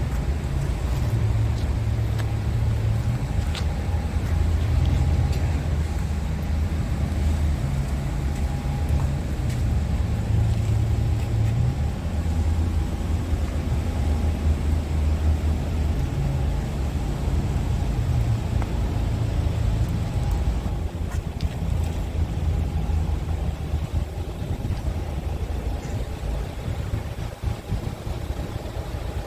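Diesel engine of a Scania R truck running, a steady low rumble that eases a little after about twenty seconds.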